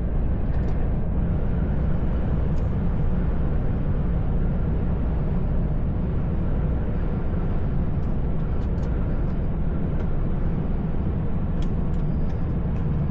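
Truck engine and tyres droning steadily while driving, heard from inside the cab, with a few faint scattered ticks in the second half.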